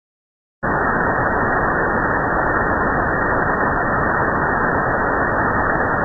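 Brief silence, then from about half a second in a steady, loud rushing noise: the cockpit background noise of an airliner recorded on a cockpit voice recorder, with no one speaking.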